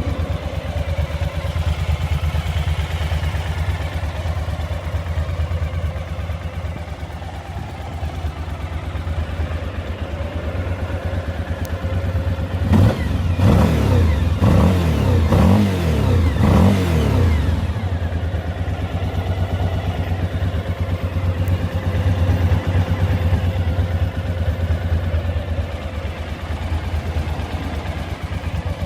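Suzuki V-Strom's V-twin engine idling steadily, then revved in a few quick blips about halfway through before settling back to idle.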